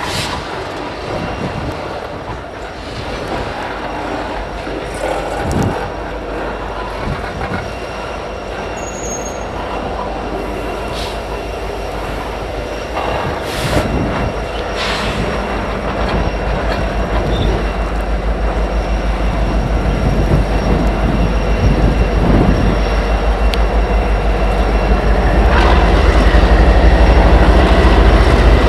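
Freight train backing slowly through a rail yard: steel wheels squealing and grinding on the rails, with a few sharp clanks around the middle. A diesel locomotive's low rumble grows steadily louder through the second half.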